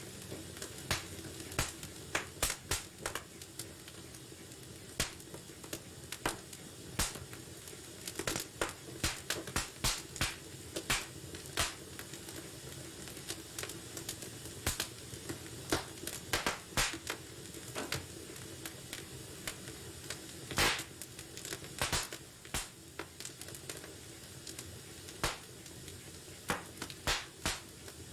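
Wood fire burning in a fireplace: a low steady hiss with irregular sharp crackles and pops, several a second, one louder pop about twenty seconds in.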